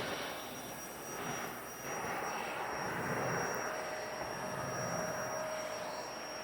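Vacuum cleaner running steadily: a rush of air with a thin, steady high-pitched whine.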